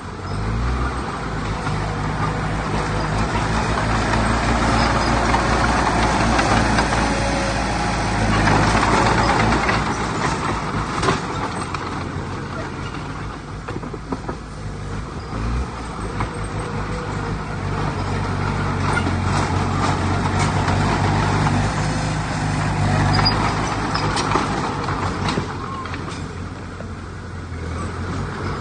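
Heavy diesel engine of earthmoving machinery running under load, its pitch and loudness rising and easing off several times, with a few sharp knocks.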